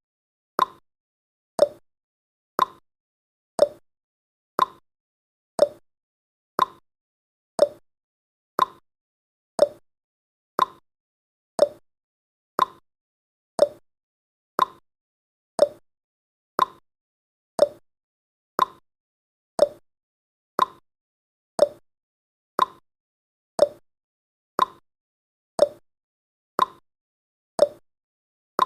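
Clock-style tick-tock sound effect of a countdown timer, one short click each second, alternating between a higher and a lower tick.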